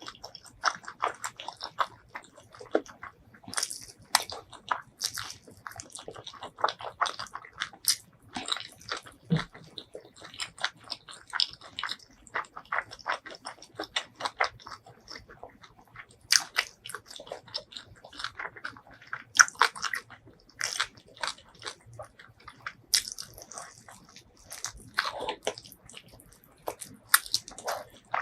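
Close-miked eating: chewing and biting, a dense, uneven run of short crunches and mouth clicks.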